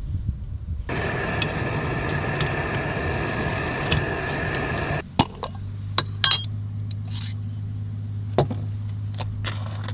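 Cordless portable blender running for about four seconds with a steady high whine, then stopping abruptly. Several light clinks and taps follow over a low steady hum.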